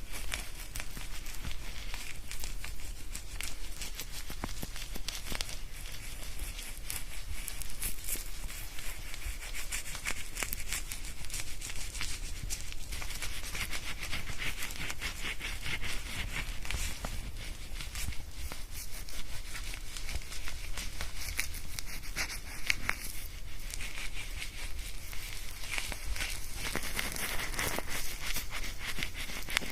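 Fingers scrubbing shampoo lather through hair, a continuous fine crackling rustle recorded close up on binaural microphones.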